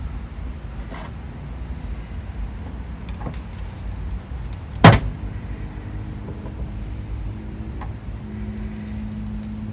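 A crumpled car fender being pulled outward by hand, with faint knocks and one sharp, loud metal clank about five seconds in. A low steady hum sets in about a second later.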